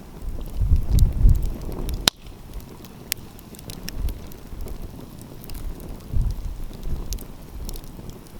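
Wood fire crackling, with scattered small snaps and one sharp pop about two seconds in. Low rumbling gusts of wind on the microphone swell early on and again near six seconds.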